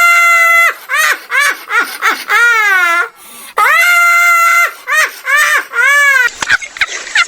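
Loud, high-pitched crying: a long held wail, then short sobbing cries and a wavering cry, the whole pattern heard twice.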